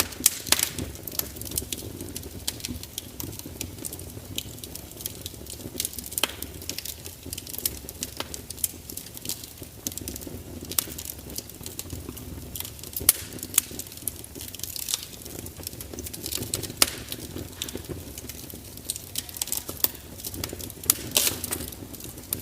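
Fire crackling, with frequent irregular sharp pops and snaps over a low steady rumble of flames.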